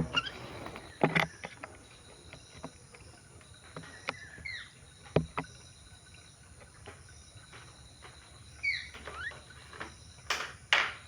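Birds feeding: scattered sharp taps and clicks of beaks pecking and cracking food, the loudest two close together near the end, with a few short chirps.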